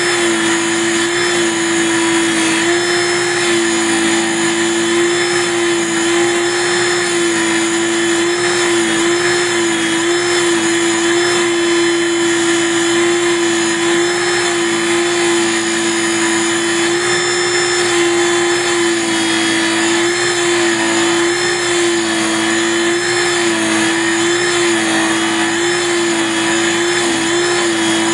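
Small hobby mini lathe running with a steady motor whine that wavers slightly in pitch, spinning a wooden dowel as it is trimmed into a keg shape.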